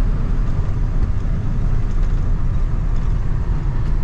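1993 Ford F350's 7.3 IDI diesel V8 running steadily with road noise, heard from inside the cab. The engine keeps running as the throttle is let off, with no stall, which the speaker takes as a sign that the fuel pump is now feeding it well.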